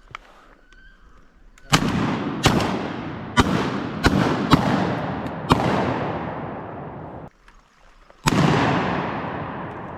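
A volley of about seven shotgun shots fired at a passing duck. They come irregularly from about two seconds in, each with a long echoing tail, and a last shot follows after a short pause near the end. The duck is dropped.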